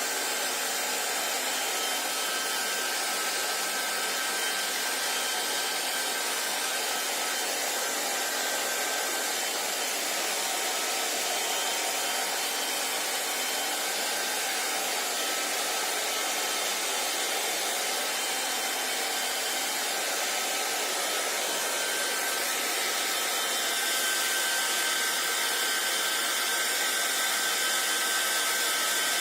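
Hand-held hair dryer running steadily: a constant rush of blown air with a faint high motor whine, getting slightly louder near the end.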